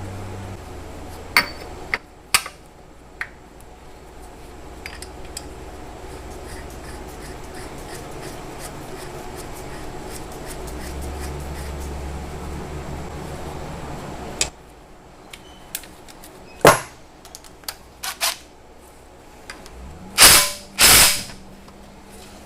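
Hand tools clicking and knocking on metal engine parts during reassembly, over a low hum, with two short loud bursts of noise near the end.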